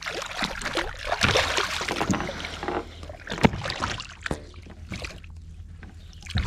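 Water splashing and knocks against a kayak as a hooked largemouth bass is fought alongside and lifted aboard by hand. The splashing is busy for the first few seconds, there is one sharp knock midway, and it is quieter after that.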